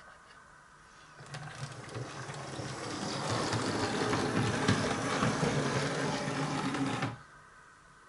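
Small electric motor of a 00 gauge model locomotive running along the track, whirring with a light rattle. It grows louder as it comes closer, then cuts off suddenly as the loco stops.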